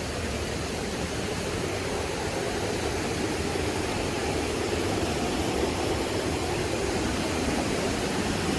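Steady rush of flowing water from a creek or small waterfall, slowly getting a little louder.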